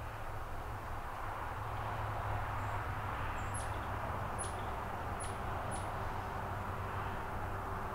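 A small bird giving a short series of sharp, high chip notes, each dropping quickly in pitch, spaced about a second apart through the middle of the stretch. Behind them runs a steady outdoor hiss with a low rumble.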